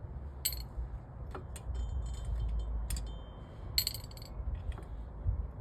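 Scattered metallic clinks and taps of tools and parts during brake work on a car: about half a dozen sharp ones, some with a brief high ring, over a low rumble.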